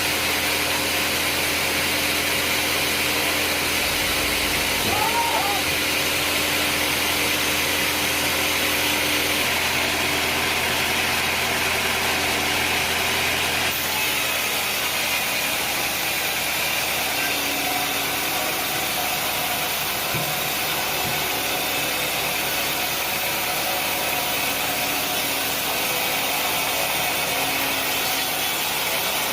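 Sawmill machinery running: a steady engine drone under the dense hiss of a saw, changing in tone about fourteen seconds in.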